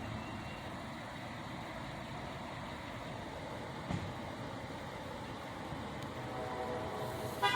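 Steady rumble of motor vehicle traffic, with a short knock about four seconds in and a pitched tone rising out of it near the end.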